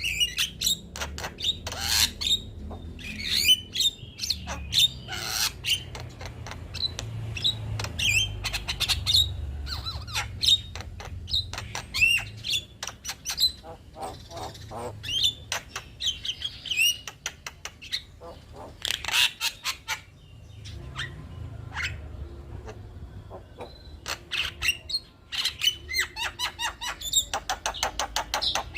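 Male Javan myna's chattering song: harsh squawks, rapid runs of clicks and short whistled notes, with a low steady hum beneath.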